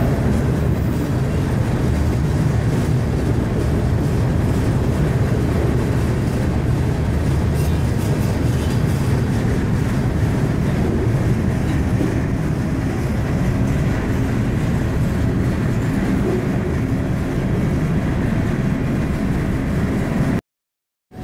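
Freight train rolling along the tracks, a steady, loud rumble heard from aboard a car of the moving train. It cuts off abruptly near the end.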